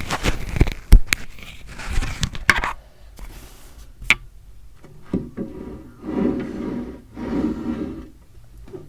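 Handling noises: a cluster of sharp knocks in the first few seconds, the loudest about a second in, followed by softer scraping and rubbing around the middle and near the end.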